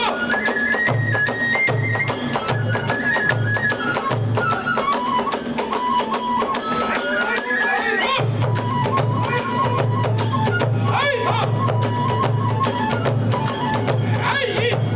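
Kagura festival music: a bamboo transverse flute playing a stepped melody over a pulsing drum beat and clashing small hand cymbals. The low drum drops out for a few seconds mid-way and comes back in about halfway through.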